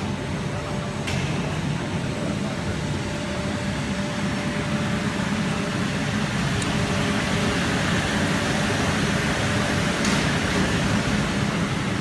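Date-processing machinery running steadily: a constant motor hum with a faint steady tone and an even rushing noise, with a few brief clicks.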